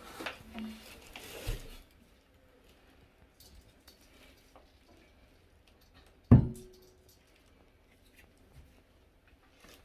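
Rustling and handling noise with a soft thump in the first two seconds, then one sharp, loud knock with a short ring about six seconds in.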